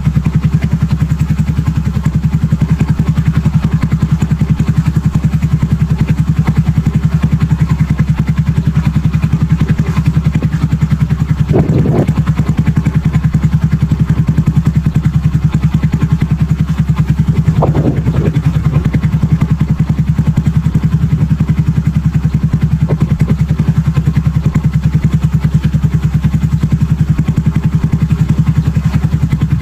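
Super Cub single-cylinder four-stroke engine idling through an aftermarket BEAMS muffler, with a steady, even exhaust beat. Twice, a brief higher sound rises over it.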